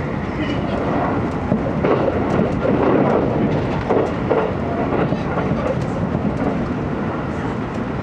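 Running noise inside an E257 series limited express car at speed: a steady rumble of wheels on rail with some clicking. It grows louder and more rattly for a couple of seconds near the middle.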